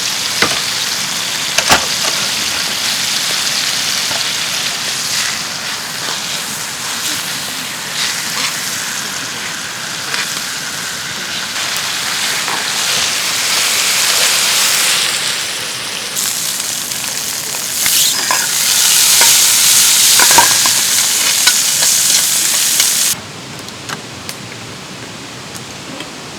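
Food frying and sizzling in a hot pan, a steady spitting hiss with scattered pops that swells and eases. It cuts off sharply near the end, leaving a quieter steady hiss.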